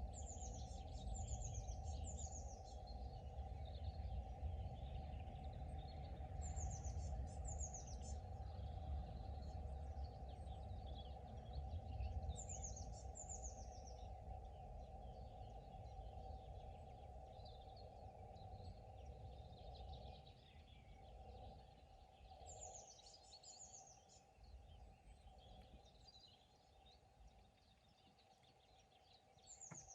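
Birdsong at a pond: one bird repeats a short phrase of high, quick falling notes every several seconds, and other birds chirp more softly in between. Under it runs a low rumble that fades out about halfway through.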